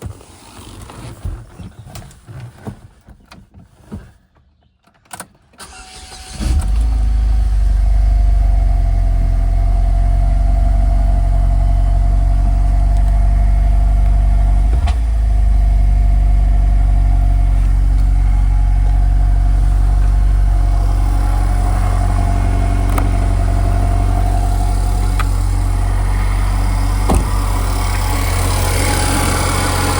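A few scattered knocks and shuffles. About six seconds in, the 2009 Saturn Sky Redline's turbocharged 2.0-litre four-cylinder starts from cold and settles into a steady idle.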